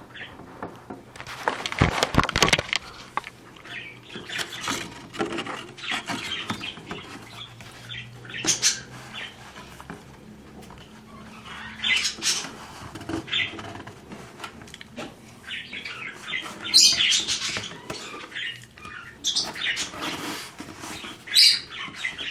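Cockatiel moving inside its carry box: scratching, rustling, knocks and bumps, with a few short, sharp high-pitched sounds. There is a cluster of knocks about two seconds in, and the loudest high sounds come around seventeen seconds in and near the end.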